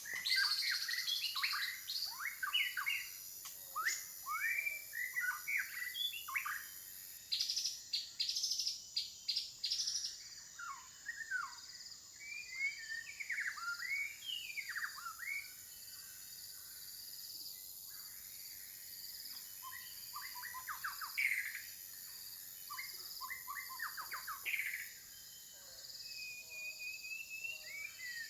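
A mixed chorus of forest birds chirping and calling: many short, quick sweeping notes overlapping one another, busiest at the start and again near the end. A steady high-pitched whine runs beneath them.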